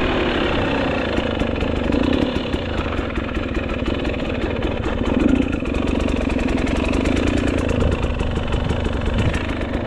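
GasGas EC300 two-stroke enduro bike engine running steadily while riding, a fast, even stream of firing pulses with no clear revving up or down.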